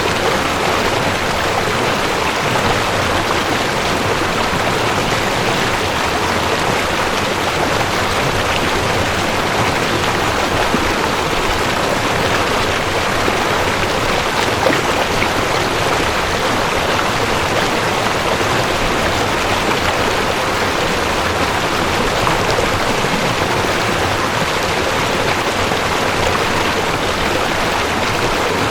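Mountain stream rushing over rocks: a steady, even sound of water running.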